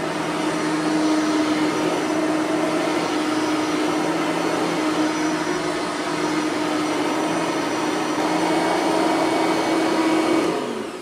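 Bissell 3510 bagged upright vacuum cleaner running steadily on a rug, its motor holding a steady tone. Near the end it is switched off and the motor winds down.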